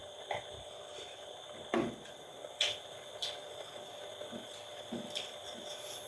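Mukbang eating noises from a rice meal: soft chewing and mouth sounds with a few short clicks and taps scattered through, the loudest nearly two seconds in and again a second later.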